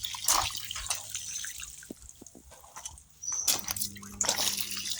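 Washing machine draining again after its blocked drain pump was cleared: water from the drain discharge splashing and dripping in irregular spurts, over a low steady hum.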